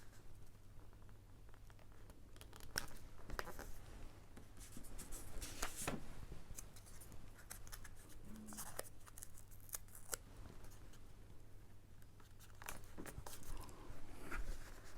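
Paper and card being handled while 3D decoupage layers are assembled on a card: scattered small clicks, snips and rustles, with a low steady hum beneath.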